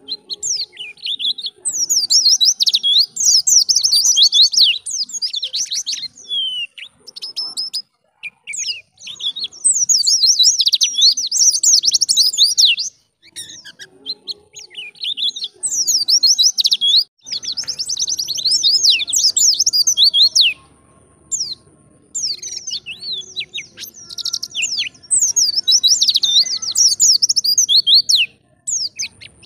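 White-eye (pleci) singing in the wild-type 'ngalas' style: rapid, high twittering in bouts a few seconds long, broken by short pauses.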